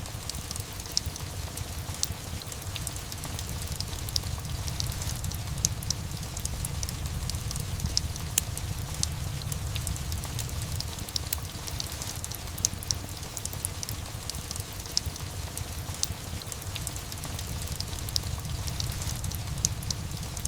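Steady rain mixed with a crackling fireplace: an even wash of rain over a low steady rumble, with frequent small sharp pops and crackles scattered throughout.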